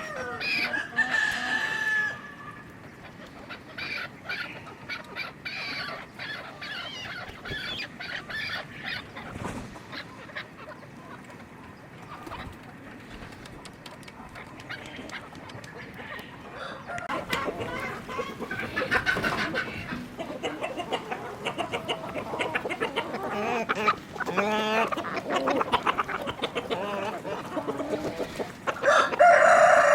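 A flock of chickens clucking and calling, louder bursts of calls about two-thirds of the way in and again at the end, over many short clicks.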